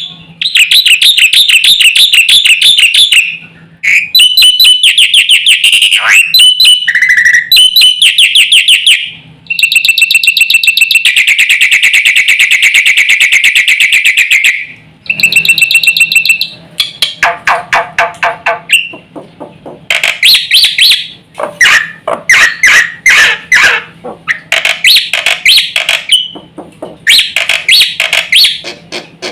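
Black-winged myna (jalak putih) singing loudly in long phrases of rapid repeated notes, broken by short pauses; in the later phrases the notes become choppier, harsher and more varied.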